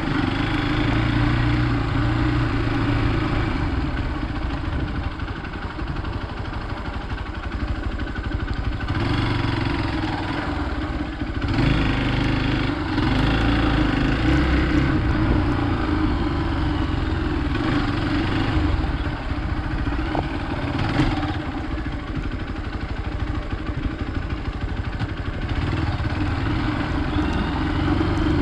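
Hero Xpulse 200's single-cylinder engine running while the motorcycle is ridden off-road. The engine rises and falls with the throttle, easing off for a few seconds and then pulling harder again.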